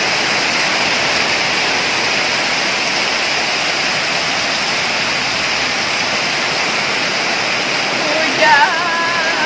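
Very heavy rain falling steadily, a dense even hiss of downpour. A voice comes in briefly near the end.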